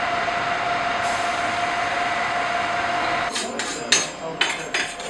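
A steady loud hiss with a thin whistling tone in it, which cuts off after about three seconds and gives way to a run of irregular sharp knocks and bangs.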